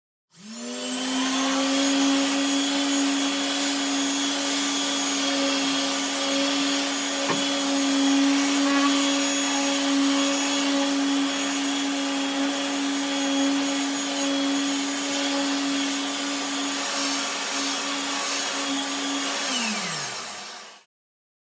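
An electric power tool's motor starting up with a quick rise in pitch, running steadily with a loud whirring hiss, then winding down with falling pitch and stopping near the end.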